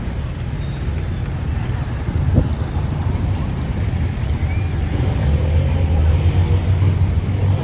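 Road traffic running past: a steady, low engine rumble of motor vehicles, with a short knock about two and a half seconds in.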